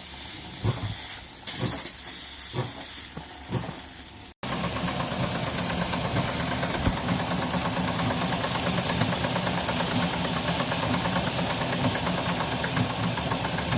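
Live steam hissing with a few knocks as the three-cylinder engine of a model Shay locomotive is primed. About four seconds in, the engine runs steadily with a fast, even chuff and mechanical clatter.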